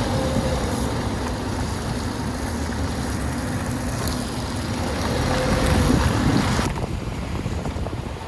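Vehicle driving, a steady engine and road rumble with wind noise; the hiss drops off suddenly near the end and small rattles follow.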